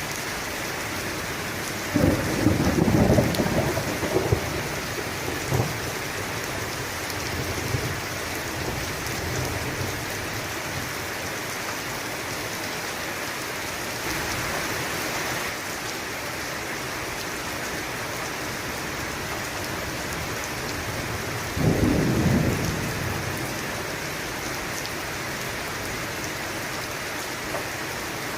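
Steady heavy rain with two claps of thunder: a rumbling one about two seconds in that trails off over a few seconds, and a shorter one about twenty-two seconds in.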